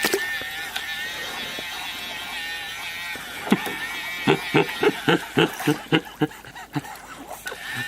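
Small electric bubble machine running with a steady, slightly wavering high whine. A quick run of short chirping pulses comes about halfway through.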